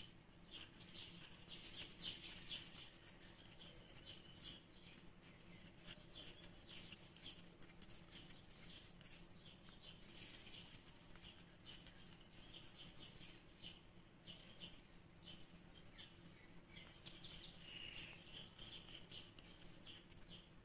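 Near silence: faint small birds chirping in quick, repeated short notes in the background, over a low steady hum.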